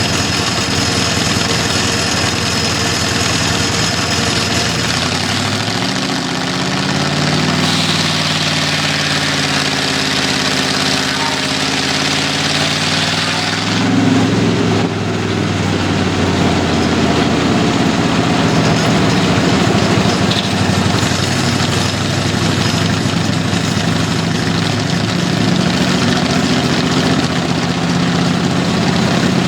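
Old-time home-built sawmill running, driven by an engine. The engine speed climbs about five seconds in, and the sound changes around fourteen seconds in.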